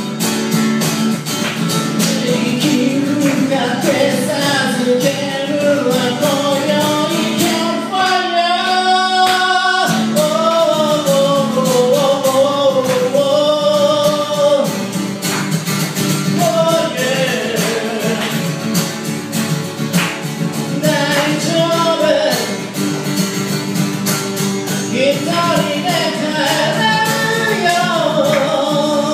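A solo singer accompanying themselves on strummed guitar, singing a flowing melody; about eight seconds in they hold one long note with vibrato.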